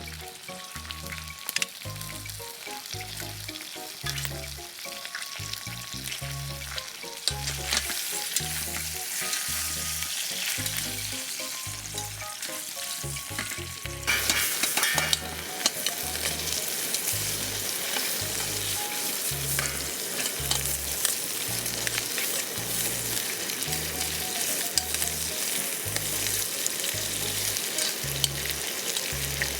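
Food sizzling and crackling as it fries, growing louder about halfway through, over background music with a steady beat.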